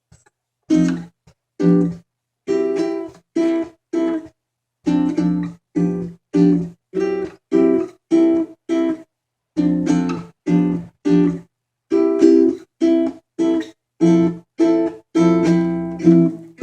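Instrumental passage of chords strummed on an acoustic string instrument, in short separate strokes about two a second. Each chord dies away quickly to silence before the next.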